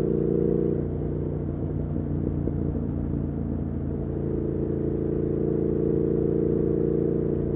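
2019 Triumph Speed Twin 1200's parallel-twin engine running through its Weslake Shorty Pro exhaust while riding. Its steady note weakens and loosens for a few seconds about a second in, then settles back into a strong, even pull.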